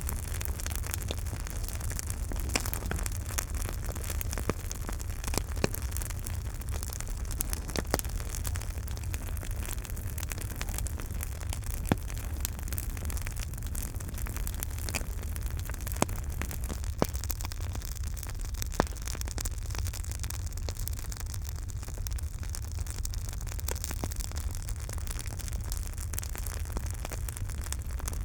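Campfire burning with a steady low rumble, continual small crackles and an occasional louder pop of the wood.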